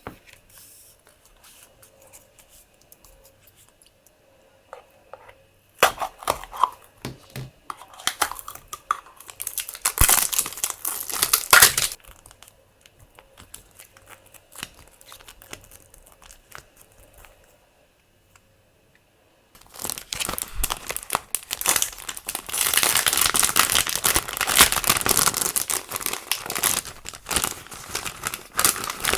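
Crinkly plastic packaging being handled and torn open while unpacking rolls of washi tape. There are two stretches of loud crinkling and tearing: one from about six to twelve seconds in, and a longer one from about twenty seconds in, with quiet handling between them.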